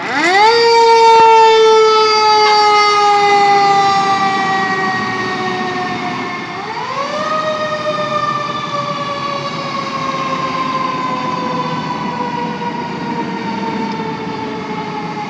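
Fire apparatus's mechanical siren winding up fast to a loud whine, then slowly coasting down in pitch; it is wound up again about seven seconds in and coasts down once more.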